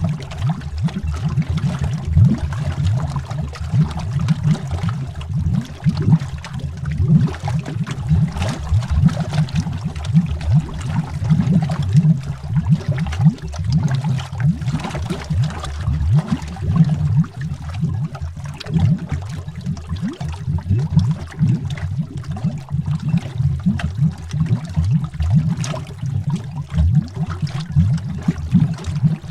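Underwater bubbles: a continuous, dense stream of low bubbling and gurgling, made of many short bubble bursts with no pauses.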